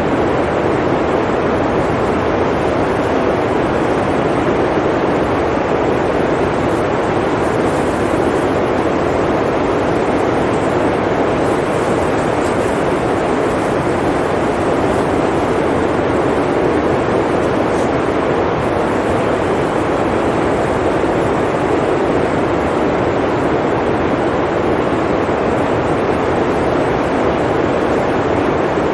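Blizzard wind blowing in a steady, unbroken rush, deep and even in level with no gusts.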